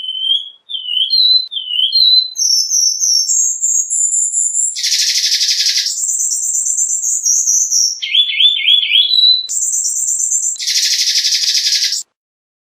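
Cuban bullfinch singing: a series of whistled notes stepping up in pitch, then harsh buzzy notes broken by a quick trill, cutting off abruptly near the end.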